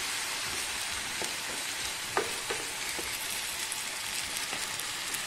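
Onion, tomato and ginger-garlic paste sizzling steadily in oil in an earthenware pot on a low flame. There are a few light knocks of a wooden spatula against the pot, the clearest about two seconds in.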